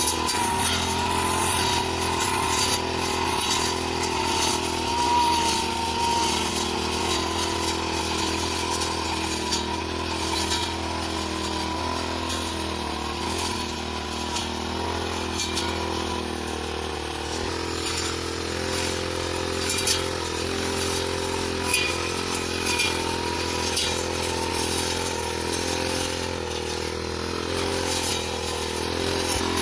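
The petrol engine of a grass-cutting machine running steadily at high speed, its pitch wavering slightly, with frequent short sharp ticks over it.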